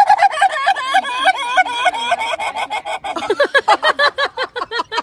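An animal's rapid, repeated calls, about six a second, each a short pitched note, dropping to a lower pitch about three seconds in.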